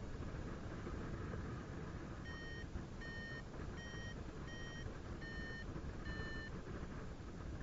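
Paragliding variometer beeping six times in a short run, its pitch a little higher in the middle beeps, the signal that the glider is climbing in lift. Beneath it, a steady low rush of wind on the microphone.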